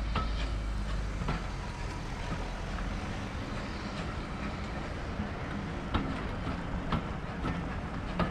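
Train running along the track with a steady rumble, its wheels clicking sharply over rail joints every one to two seconds.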